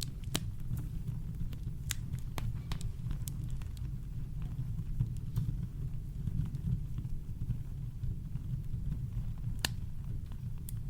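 Campfire crackling: irregular sharp pops and snaps of burning wood, one louder pop near the end, over a steady deep rumble of brown noise.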